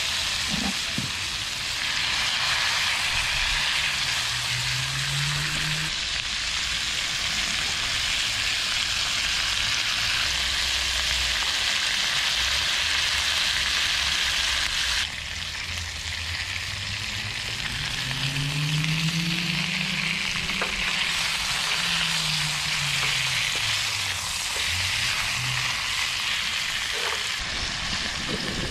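Conger eel steaks sizzling steadily as they fry in butter in a frying pan, with a slight drop in level about halfway through.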